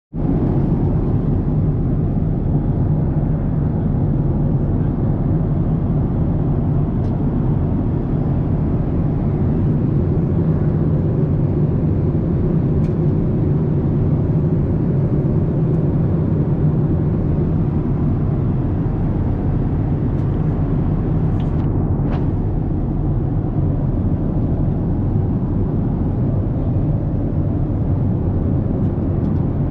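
Steady low rumble of a Boeing 787 Dreamliner's jet engines running, even in level throughout, with a couple of faint ticks.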